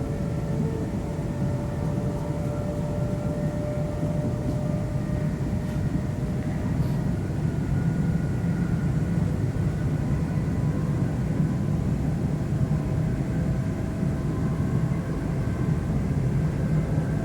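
London Midland Class 350 electric multiple unit running at speed, heard from inside: a steady low rumble of the train on the track with faint, slowly drifting whining tones over it.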